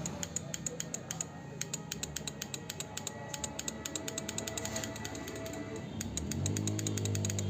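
Suzuki Hayate's electric start clicking rapidly, several 'tak tak' clicks a second, while the starter button is held and the engine does not crank. The sign of a failed starter motor: current is reaching it but it does not turn, while the relay and wiring test good. A low hum comes in about six seconds in.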